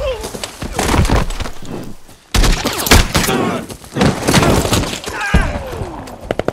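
Movie firefight sound effects: bursts of rifle fire and sharp bullet impacts, mixed with men's grunts and shouts. The sound drops out almost completely about two seconds in, then comes back with a sudden loud burst. A couple of falling whines are heard along the way.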